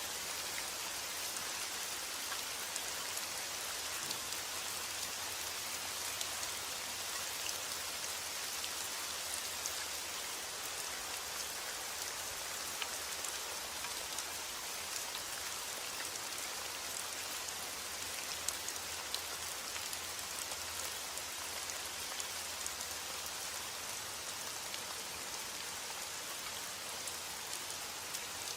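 Steady rain falling, an even hiss with the fine patter of many individual drops striking a surface.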